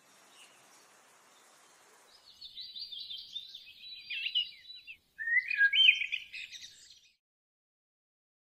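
Starlings chattering: a run of quick, scratchy calls starts about two seconds in, then, after a brief break, a louder burst of chirps and whistles lasts about two seconds and stops.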